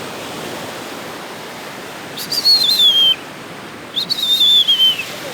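Two long whistled notes, each falling and wavering in pitch, the second starting about a second after the first ends, over a steady rush of waves.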